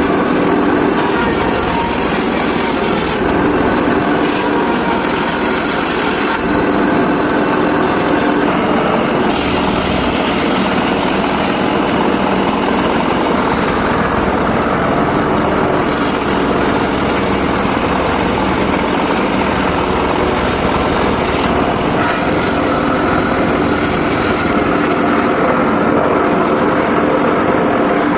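Homemade circular saw running steadily while its blade cuts sengon laut (albizia) wood, the tone shifting slightly a couple of times.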